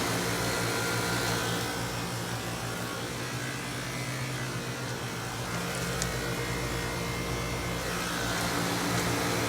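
1993 Carrier Tech 2000 five-ton central air conditioner condensing unit running steadily: the compressor gives a low electrical hum under the rush of the condenser fan.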